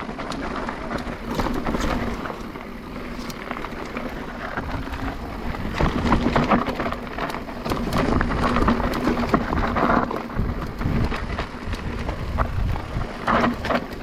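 Electric mountain bike being ridden down a rough, rocky trail: a continuous rattle and clatter of tyres, chain and frame over stones, with many small knocks.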